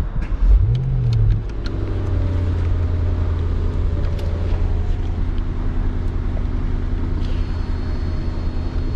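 Mercedes-AMG S63's twin-turbo V8 starting up: a brief rev flare about half a second in, then settling into a steady idle.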